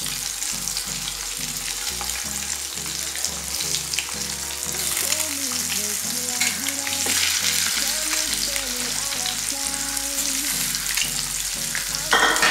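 Halved boiled eggs, coated in turmeric, chili powder and salt, sizzling in hot oil in a kadai: a steady frying hiss with scattered small crackles.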